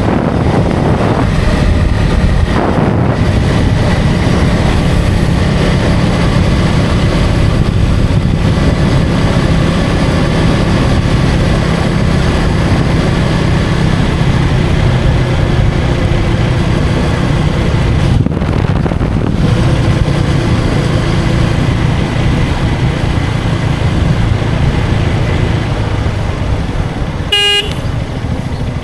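KTM Duke 250 motorcycle's single-cylinder engine running steadily at road speed, with wind noise throughout. A brief vehicle horn toot sounds near the end.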